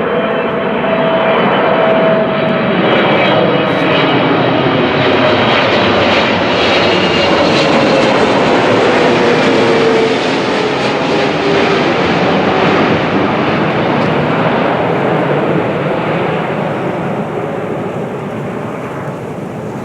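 Jet airliner passing close by, its engine roar building, then fading, with a whining tone that falls in pitch as it goes past.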